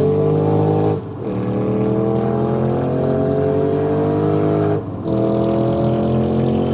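Car engine accelerating hard at high speed, its pitch climbing steadily, with a brief dip and fall in pitch about a second in and again near five seconds, as it shifts up a gear each time.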